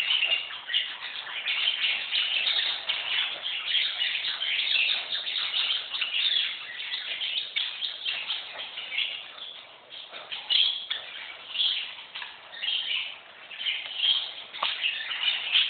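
Small birds chirping and twittering without pause, a dense run of short high calls.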